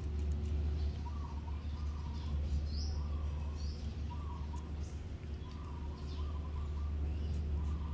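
Birds chirping intermittently: short calls repeating throughout, with two brief high rising chirps about three seconds in, over a steady low rumble.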